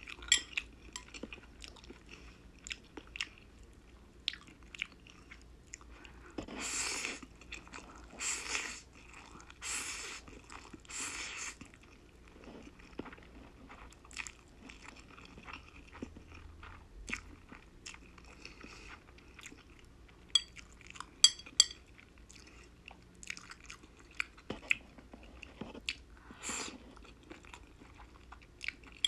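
Close-up eating sounds: wet chewing and lip smacks on spicy black-bean instant noodles and boneless chicken feet, with a run of about four noodle slurps a quarter of the way in. A quick cluster of sharp clicks about two-thirds through is the loudest moment.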